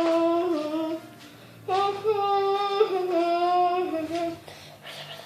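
A child's voice holding long, wavering 'oooh' notes in two breaths, imitating wind blowing through trees.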